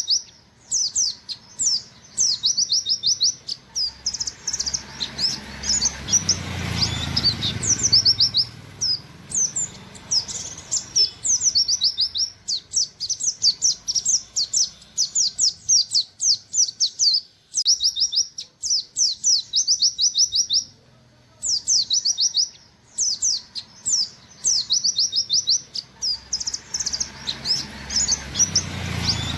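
White-eye (pleci, buxtoni type) singing in fast runs of short, high, falling 'wit wit' notes, repeated phrase after phrase. A low background rumble swells briefly twice.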